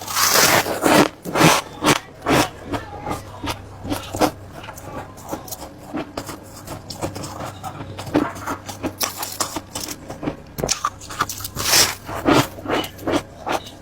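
Close-up crunching of ice being bitten and chewed: a run of irregular sharp crunches, with louder bites near the start and again late on.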